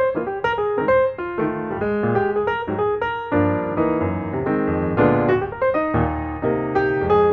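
Background piano music: a steady run of notes with chords underneath.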